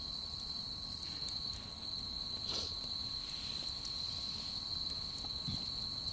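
Crickets chirring, a steady high-pitched trill, with a few faint clicks over it.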